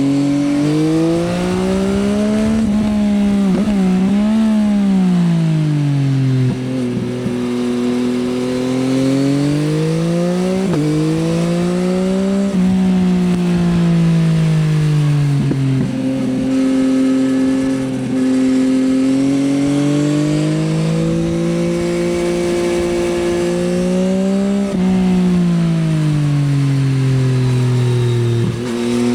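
Yamaha XSR900's inline three-cylinder engine through an Akrapovič Racing Line exhaust, ridden on the road. The engine note climbs and falls repeatedly as the bike accelerates and slows, with short sharp breaks at the gear changes and a steady, even stretch of cruising in the middle.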